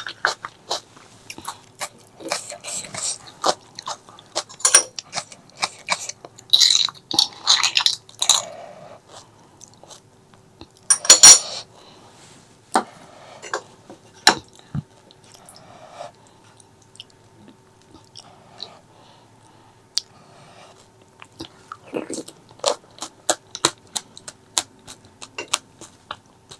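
Close-miked eating: irregular chewing and crunching with sharp clicks and light clinks of cutlery on dishes. The loudest crunch comes about eleven seconds in.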